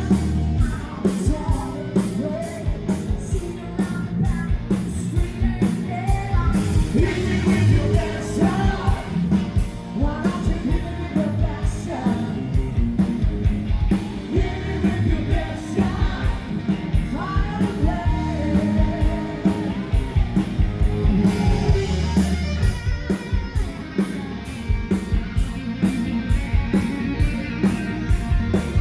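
Live rock band playing: a singer over a steady, driving drum beat.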